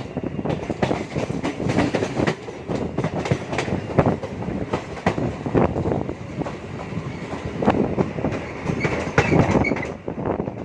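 MEMU train running along the line, its wheels clattering over rail joints and points in a dense, irregular string of knocks over the steady rumble of the running train.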